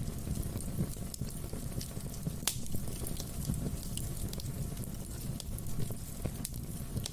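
Wood fire burning in a fireplace: a steady low rumble with irregular crackles and sharp pops, the loudest pop about two and a half seconds in.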